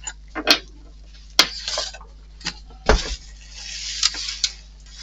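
Small hard model-kit parts clicking, clattering and scraping as they are handled on a work surface, with a dull thump about three seconds in.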